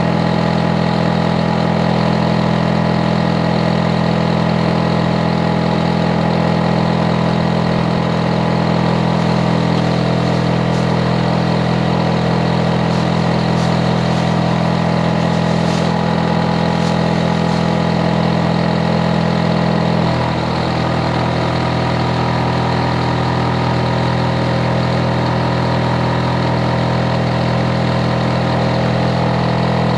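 Hitachi air conditioner outdoor unit running with a loud, steady hum of several low tones. About twenty seconds in, the hum shifts slightly in pitch and drops a little in level.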